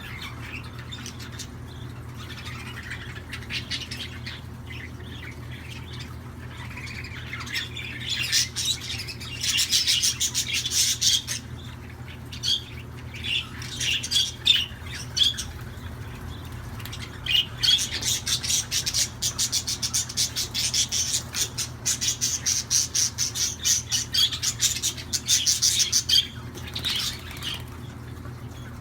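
Pet budgerigars chirping and chattering in quick, squawky runs. Fainter at first, then busy and loud from about a third of the way in to near the end, over a steady low hum.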